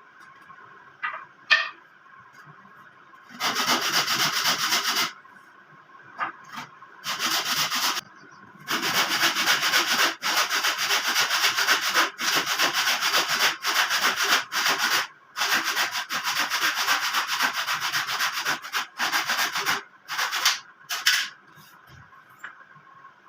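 Wood being sanded in spells of a few seconds at a time, the longest lasting about ten seconds, with short pauses between.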